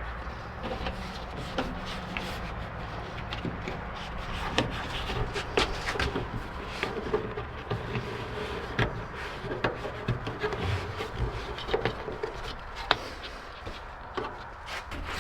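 Hand work on a pickup's passenger door weather stripping: rubbing and scraping with many scattered light clicks and taps.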